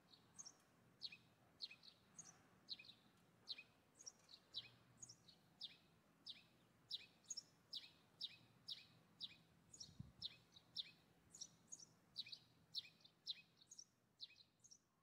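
Faint bird chirping: short, high chirps that each drop in pitch, repeating about twice a second.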